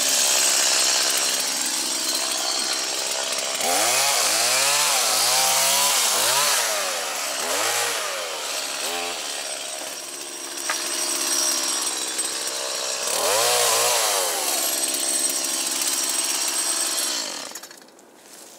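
Chainsaw cutting birch logs, its engine pitch rising and falling again and again as the chain works through the wood, hard going to saw. The saw stops near the end.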